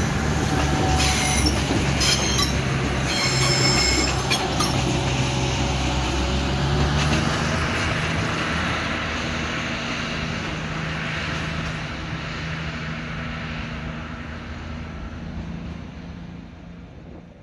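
A train running past on the tracks, with high-pitched wheel squeal in the first few seconds, then steadily fading away.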